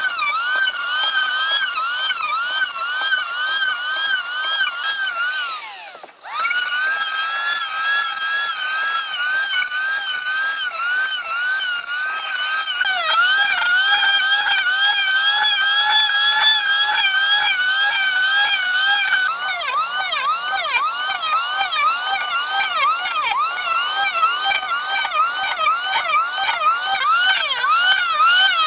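Chainsaw running at high revs, a loud high whine whose pitch wavers quickly up and down as it works. About six seconds in the pitch drops and the sound briefly fades, then it picks up again and runs on.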